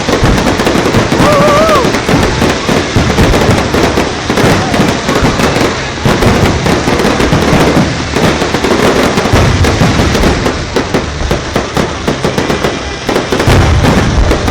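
Aerial fireworks exploding at close range from directly beneath, a dense, continuous run of booms and crackles with heavier low booms about nine and a half seconds in and again near the end.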